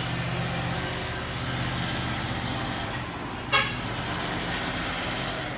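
Engines running with road traffic noise, and a short vehicle horn toot about three and a half seconds in.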